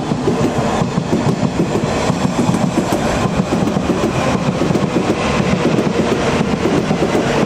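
Electric multiple-unit passenger train running through the station close by: a steady rolling rumble with repeated wheel clicks over the rail joints.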